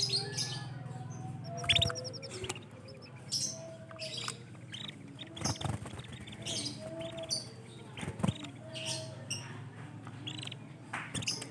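Canaries chirping and calling: a busy run of short, sharp chirps with a quick trill about three seconds in and a few lower whistled notes. A steady low hum sits under the first couple of seconds.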